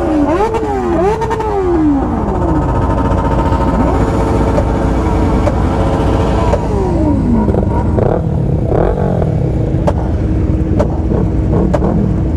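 Motorcycle engines revving during a group ride: the pitch climbs and drops in quick steps at the start and then falls away, holds steady through the middle, and falls again about eight seconds in, over a steady low rumble.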